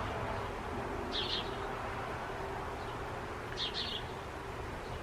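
Small bird chirping: short high paired chirps about a second in and again near four seconds, over steady outdoor background noise.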